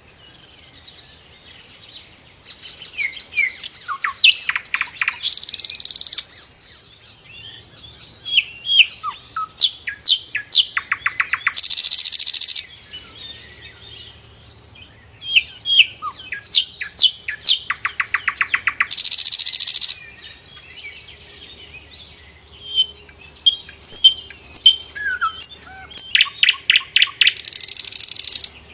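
Sikatan londo flycatcher singing: a run of varied whistled and chirping notes, broken about every seven seconds by a loud, rapid buzzy trill lasting a second or two.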